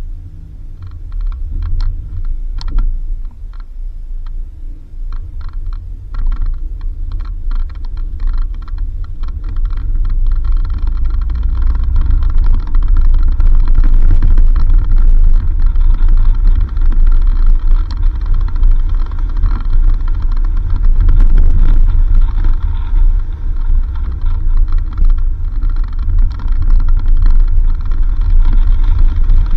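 A 4x4 vehicle driving on a dirt road: a deep rumble of engine and tyres that grows louder over the first dozen seconds, with scattered ticks and rattles during the first ten seconds.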